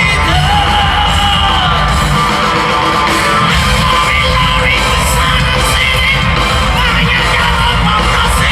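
Rock band playing live at full volume in a large hall, recorded from the crowd, with yelled vocals and a bending melodic line over a heavy, steady low end.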